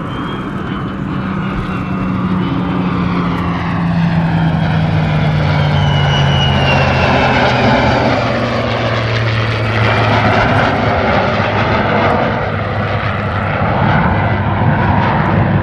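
Loud jet noise from an F-35A Lightning II's Pratt & Whitney F135 afterburning turbofan as it flies past. Its tone slides slowly down in pitch over the first ten seconds or so.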